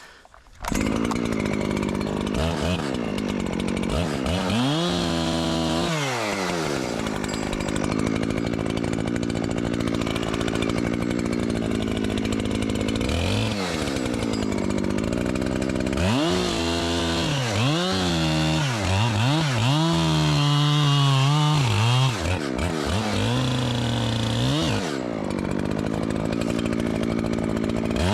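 Echo two-stroke chainsaw coming in abruptly under a second in and running at high revs, its pitch repeatedly sagging and climbing back as it loads up in the wood, most often in the second half.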